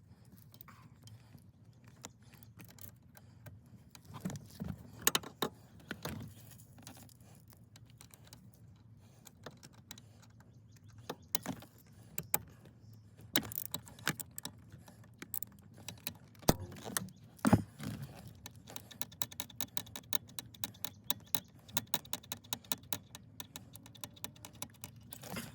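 Small metal tools and parts clinking and knocking as they are handled, with scattered sharp knocks and then a quick, even run of clicks through the last several seconds.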